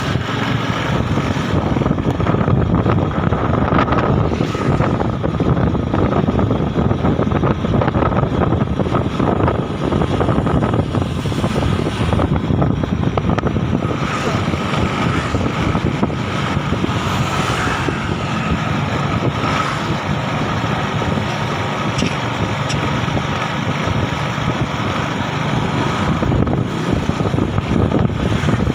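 Motorbike engine running at a steady cruising speed, mixed with wind rushing over the microphone.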